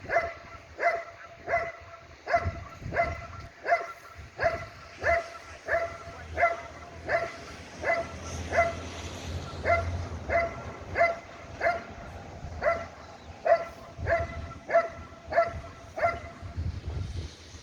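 A dog barking in a steady, regular series, about one and a half barks a second, each bark short and clear-pitched; the barks stop near the end. It is the rhythmic guarding bark at the decoy in protection training.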